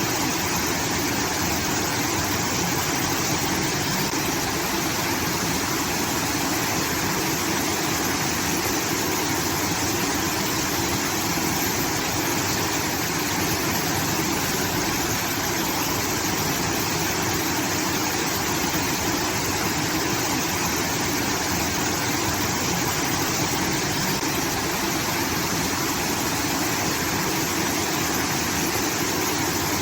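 Water pouring steadily from a rice-field irrigation outlet, an unbroken waterfall-like rush.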